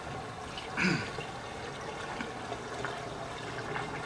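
Steady running and splashing water of a swimming pool. About a second in there is a brief, louder sound with a short falling pitch.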